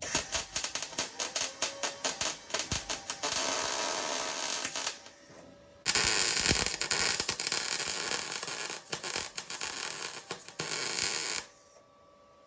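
Unimig 165 MIG welder arc welding new steel floor panels in, a crackling arc in two runs of about five seconds each. The first run starts in short stutters, and there is a brief pause about five seconds in.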